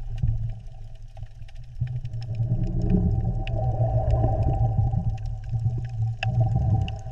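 Low, steady rumbling drone with a held hum above it and a few faint scattered ticks.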